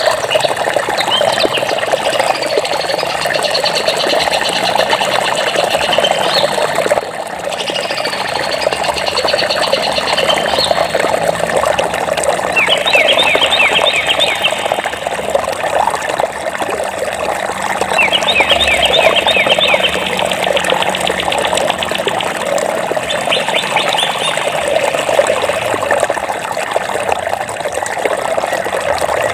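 Water running steadily in a stream or brook, with birds singing over it: long high trills through the first ten seconds or so, then three spells of rapid chirping in the second half.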